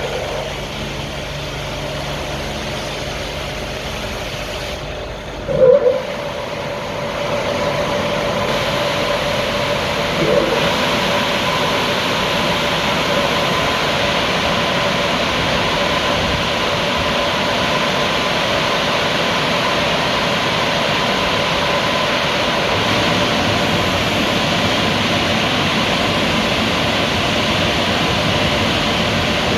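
Ceccato car wash tunnel machinery running: a steady rush of water spray and brushes with a faint steady whine from its motors. There is a short loud knock about six seconds in and a smaller one about ten seconds in.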